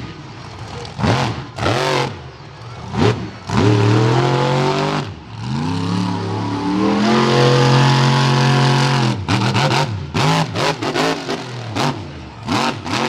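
Monster truck's supercharged V8 engine revving hard, its pitch climbing and falling, holding at high revs for a couple of seconds in the middle, then a run of short, sharp bursts near the end.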